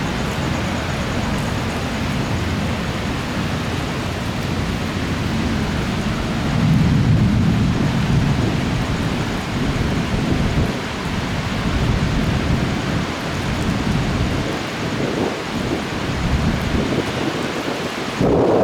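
Heavy thunderstorm rain falling steadily, with thunder rumbling underneath. The rumble swells about a third of the way through.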